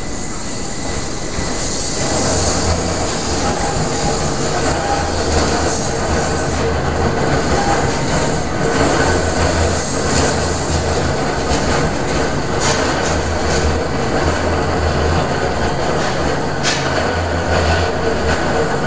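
Keihan 800 series train running slowly through a very sharp street-level curve: a steady low rumble from motors and wheels, with a held squeal from the wheels on the curve. A couple of sharp clacks come in the second half.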